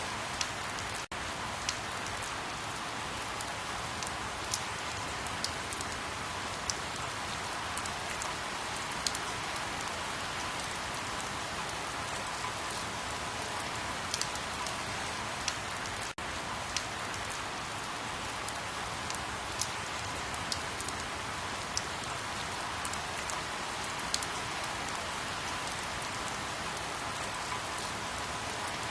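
Steady rain falling, with scattered sharper drops ticking through it. The sound cuts out for an instant twice.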